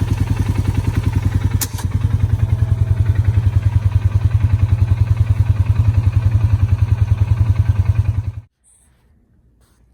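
2004 Subaru Forester 2.5X's flat-four engine running at a steady idle through aftermarket replica Borla headers, with an even, rapid exhaust throb. The sound cuts off suddenly about eight and a half seconds in.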